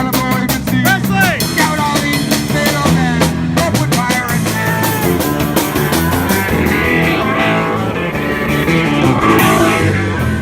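Punk rock band playing loudly: electric guitar and drum kit driving a steady beat, with no singing.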